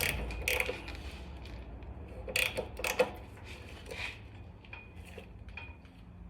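Steel hand tools clinking against metal: a series of sharp metallic clinks and taps, the loudest about two and a half and three seconds in, then lighter ticks, as a wrench works on the motorcycle's rear wheel to lock it in place.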